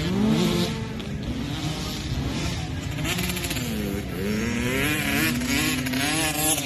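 Motocross dirt bike engine revving up and down as it is ridden, its pitch climbing and falling with the throttle and gear changes, dipping about four seconds in and then climbing again.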